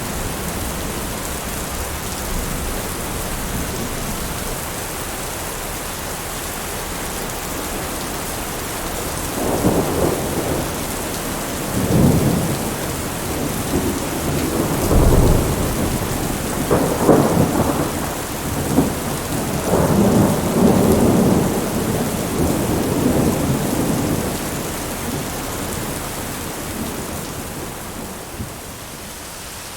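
Steady heavy rain, with a long roll of thunder rumbling in swells from about a third of the way in and dying away near the end.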